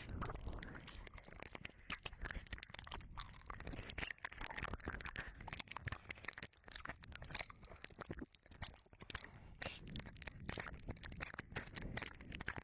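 Wet mouth sounds into a 3Dio binaural microphone's ear: licking, tongue clicks and lip smacks, closely spaced and irregular.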